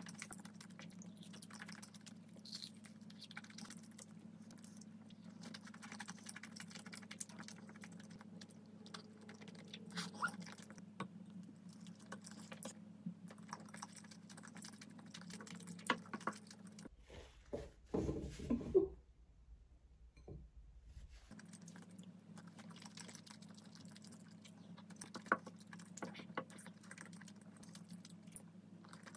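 Close-miked chewing of food, with soft wet mouth clicks and light clicking over a steady low hum. Just past halfway there is a louder cluster of chewing sounds, and the hum drops out for a few seconds.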